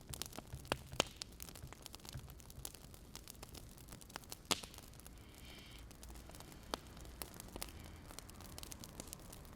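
Wood fire crackling: irregular sharp pops and snaps over a low, steady hiss.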